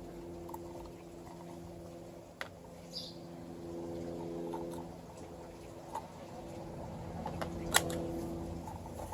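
A small electric motor humming steadily, with several light clicks and taps over it; a sharp tap about eight seconds in is the loudest sound.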